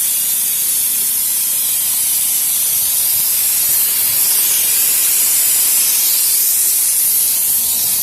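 Paint spray gun hissing steadily as paint is sprayed onto a fabricated steel tool box.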